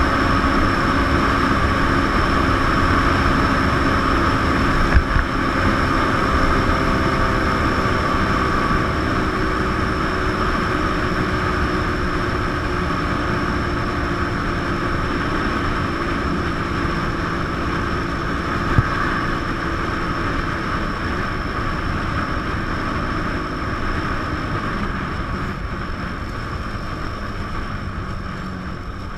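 A 150 cc single-cylinder motorcycle engine running steadily at road speed, heard from the rider's position with steady wind rush over the microphone. The engine note sags a little early on, there are two brief knocks, and the sound gets quieter near the end as the bike eases off.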